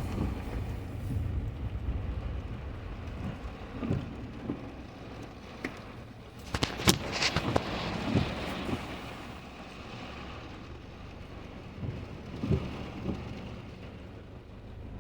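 Car moving in the rain, heard from inside the cabin: a steady low road and engine rumble with scattered taps and knocks of rain on the car, a cluster of them about halfway through.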